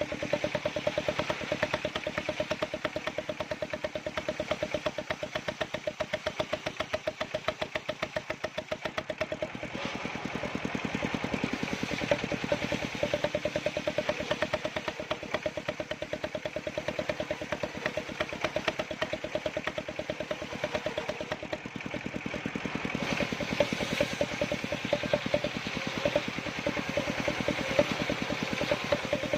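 Small engine driving a wood-cutting circular saw rig, running steadily at an even speed with a rapid, regular beat of firing pulses. It gets a little louder twice.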